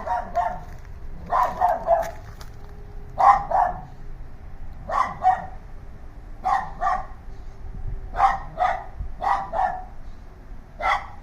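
Dogs barking over and over, mostly in quick pairs of barks about every one and a half seconds.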